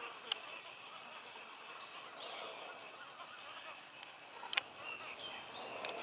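A bird calling in pairs of short, high, falling notes, three times about every two and a half seconds, over a faint steady outdoor background. A single sharp click sounds about three-quarters of the way through.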